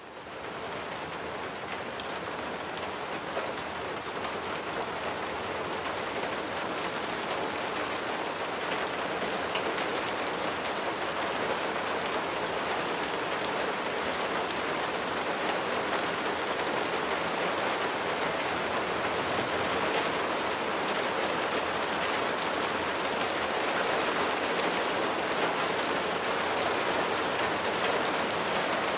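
Steady rain falling, a dense patter of raindrops with individual drop ticks standing out. It swells up in the first second, then holds steady.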